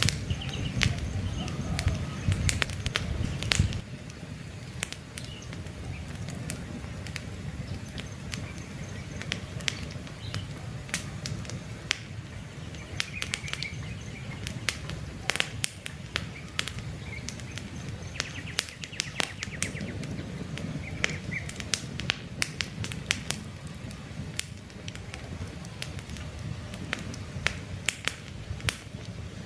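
Wood campfire crackling with frequent sharp pops, over a low rumble that drops away about four seconds in. Faint birds chirp in the background now and then.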